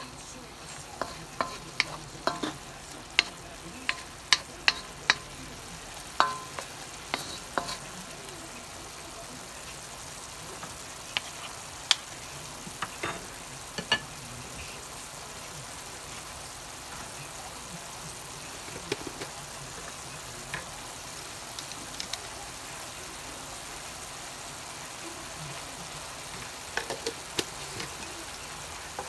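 Sliced beef sizzling in its juices in a wok, with a wooden spatula clacking and scraping against the pan in quick strokes for the first several seconds. The stirring then stops and the sizzle runs on steadily, with a few more knocks later on.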